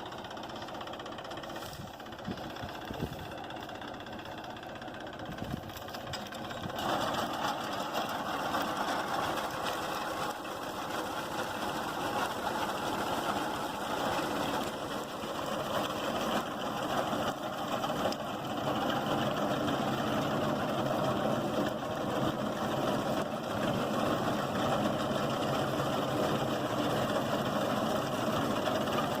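Mahindra 265 tractor's diesel engine running with a tractor-driven reaper binder at work cutting wheat; the sound gets louder about seven seconds in.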